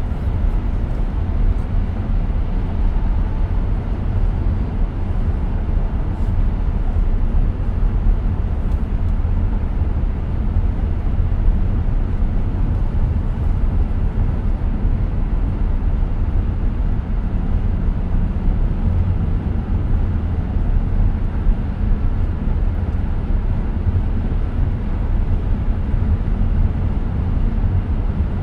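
Steady low road and tyre rumble inside the cabin of a moving 2023 Tesla Model X, an electric car, so there is no engine note, just an even drone with no distinct events.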